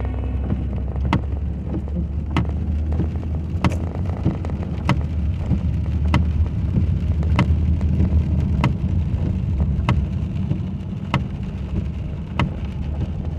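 Inside a moving car in the rain: steady low engine and road rumble with rain noise, and a sharp click about every second and a quarter from the windshield wipers at each sweep.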